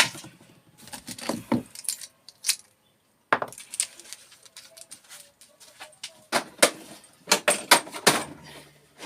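Scattered clinks, clacks and knocks of small scrap parts being handled and set down on a workbench.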